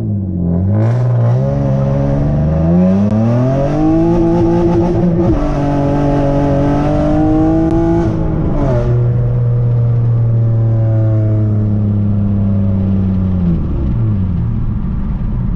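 Nissan Maxima's 3.5-litre V6 pulling away through a six-speed manual, heard inside the cabin with the windows partly down. The revs climb, dip briefly, climb again, then drop at an upshift about eight and a half seconds in, hold steady while cruising, and fall away near the end.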